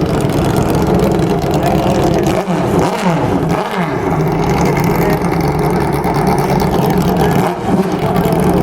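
Motorcycle engine running steadily, with brief revs a few seconds in and again near the end.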